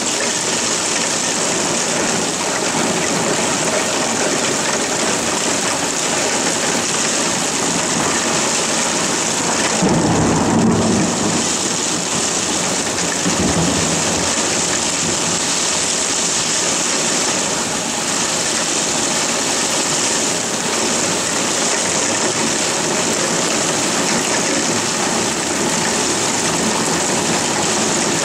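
Heavy rain falling steadily, a dense even hiss. A short low rumble rises through it about ten seconds in, and a fainter one follows a few seconds later.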